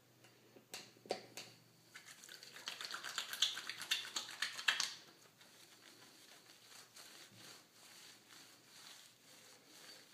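Water splashing and trickling as a cat is rinsed in a bathtub, busiest for a few seconds near the middle, with a couple of light knocks in the first second or so.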